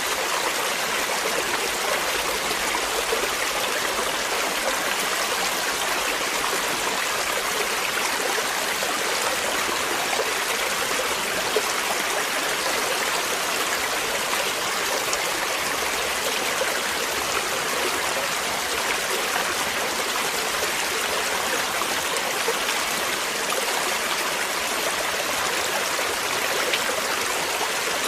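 Flowing water, a stream running steadily over rocks.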